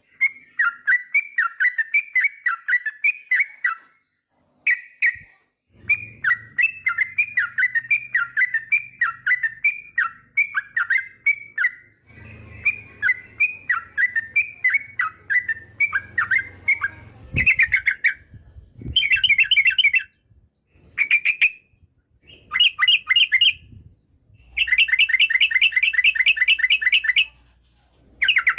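Yellow-vented bulbul (trucukan) singing a chattering song of quick repeated notes in runs, broken by short pauses; from about two-thirds of the way in it gives louder, denser bursts. A faint low hum sits underneath part of it.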